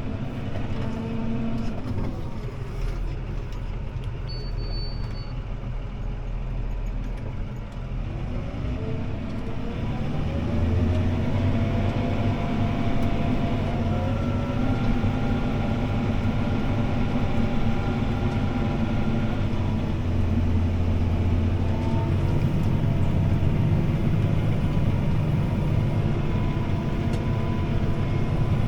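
CLAAS ARION 650 tractor's six-cylinder diesel engine running under load as heard from inside the cab. The engine note eases about a quarter of the way in, then rises in pitch and gets louder toward the middle, and holds steady after that.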